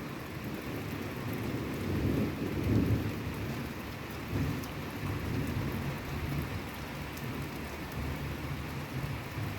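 Thunder rumbling continuously close by, swelling about two to three seconds in, over steady rain falling.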